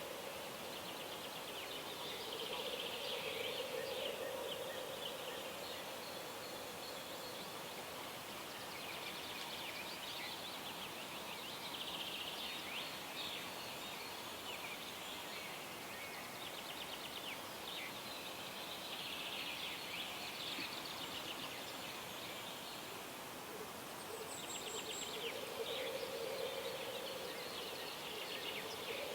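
Birds singing at dawn over a steady outdoor hiss: trilled song phrases repeat every few seconds. A lower, drawn-out call comes and goes at the start and again in the last few seconds.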